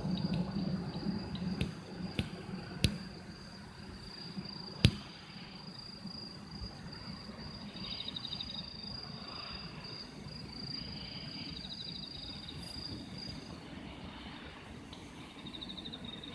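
Insects trilling: a steady high note carries on with short pulsed trills now and then. There is a low rumble that fades over the first few seconds, and a few sharp clicks, the loudest about five seconds in.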